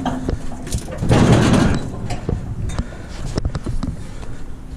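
A large metal barbecue grill being shoved and turned on a trailer. There is a scraping drag about a second in, then scattered clanks and knocks as it shifts.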